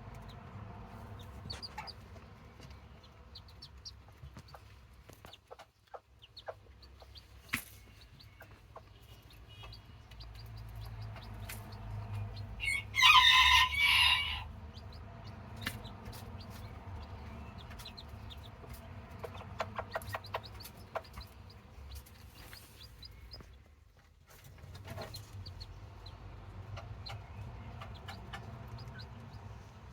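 Serama bantam chickens clucking faintly with small scattered clicks and scratches, and one loud rooster crow lasting about a second and a half, about halfway through.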